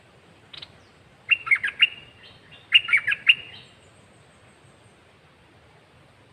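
Caged red-whiskered bulbul singing two quick warbled phrases of rising and falling whistled notes, a little over a second apart, after one faint note.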